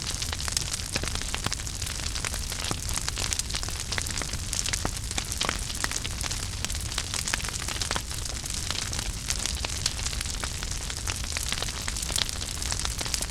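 Wood fire burning in a fireplace: a steady low rumble and hiss with dense, irregular crackles and small pops from the burning logs.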